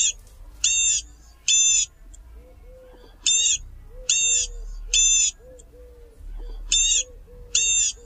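Bird calls: loud, short, high calls in groups of three, a new group about every three and a half seconds, with softer low calls in between.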